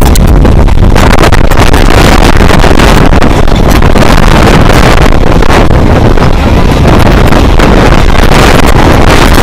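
Moving electric suburban train heard from its open doorway: a loud, steady rush of wind buffeting the microphone over the train's running rumble on the rails, with frequent crackles.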